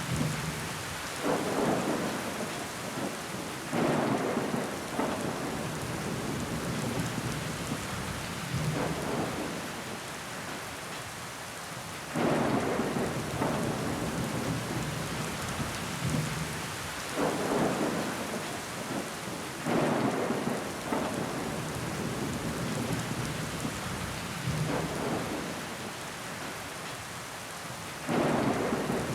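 Steady rain on a window pane, with a louder swell every few seconds that comes on suddenly and fades away.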